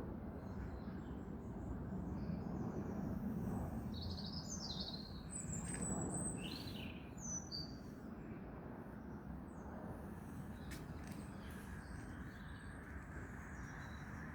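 Wild songbirds chirping: a flurry of short, high, falling chirps in the middle, then a few faint scattered notes, over a steady low background noise.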